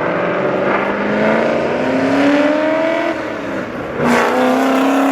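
Car engine accelerating hard, its pitch climbing for about three seconds, then easing off before another loud surge of engine sound about four seconds in.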